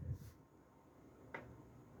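Near silence: faint room tone, with the tail of a spoken word at the start and a single faint click a little over a second in.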